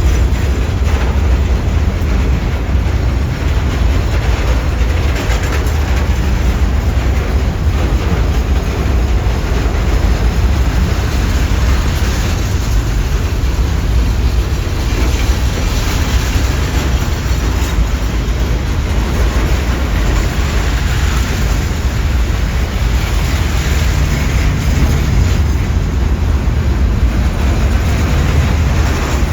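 Long freight train of container wagons rolling past: a steady heavy rumble of wheels on rail, with intermittent wheel clatter.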